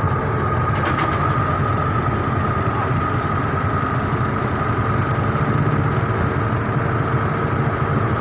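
A motor vehicle's engine running steadily at idle, a low rumble with a constant whine above it.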